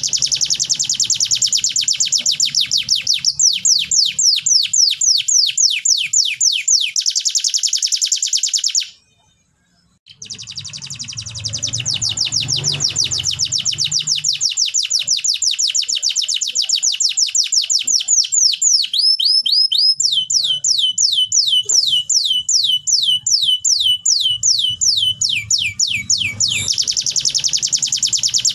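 Domestic canary song: long rolling trills of rapidly repeated, quickly falling notes, broken by about a second of silence some nine seconds in, then switching to different repeated phrases later on.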